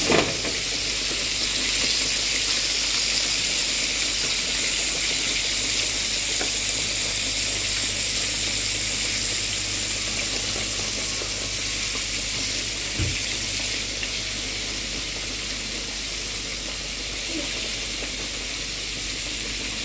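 Floured chicken pieces deep-frying in a pan of hot oil: a steady sizzling hiss that eases slightly near the end.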